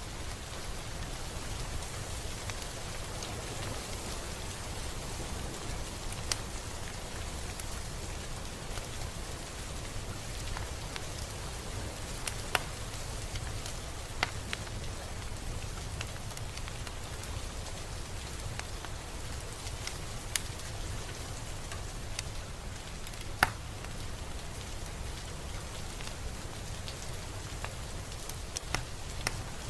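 Steady rain falling, with a low rumble underneath and scattered sharper single drops ticking through it. The loudest drop comes about two-thirds of the way through.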